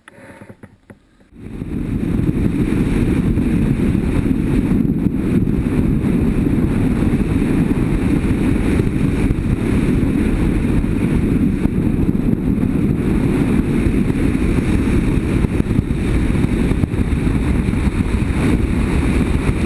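Motorcycle at riding speed, its BMW F800GS engine under a loud, steady rush of wind on the microphone. The rush starts suddenly about a second and a half in.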